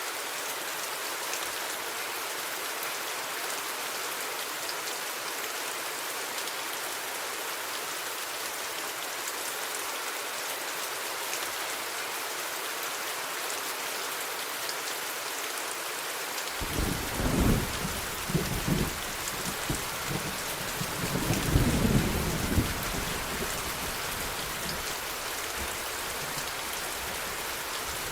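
Steady rain falling throughout. A little past halfway a roll of thunder breaks in suddenly, swells twice over about six seconds, then fades back under the rain.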